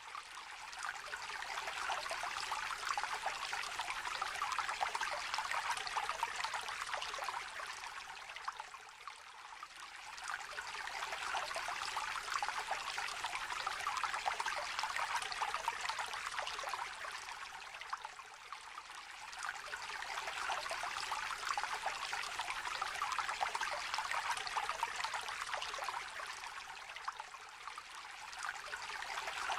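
Small river or brook trickling and babbling over stones in a steady wash of water noise. The level swells and eases gently about every nine seconds.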